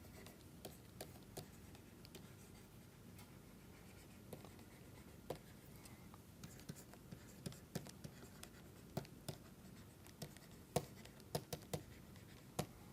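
Faint writing sounds: a pen tapping and scratching on a writing surface in short, irregular strokes.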